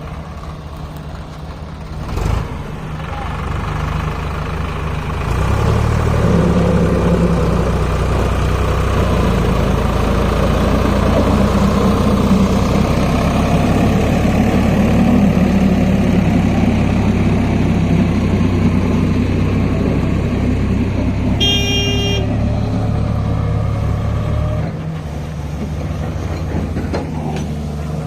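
Heavy diesel vehicle engine running steadily, growing louder about six seconds in and easing off near the end. A short horn toot sounds about three quarters of the way through.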